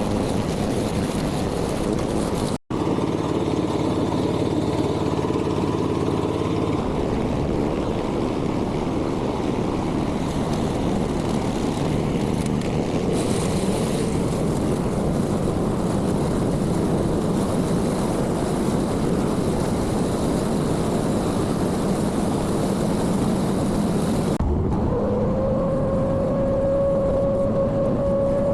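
Small construction machine engine running steadily under work. Near the end a steady whine comes in and rises slightly in pitch.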